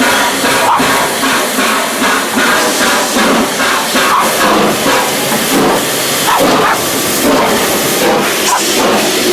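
Steam locomotive letting off a loud, steady hiss of steam, with irregular sharper sounds over it.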